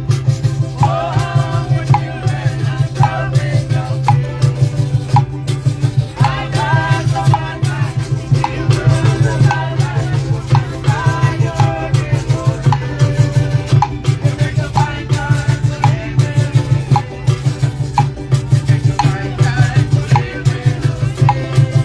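Upbeat live band music with singing and shakers over a steady beat. A steady low hum runs underneath.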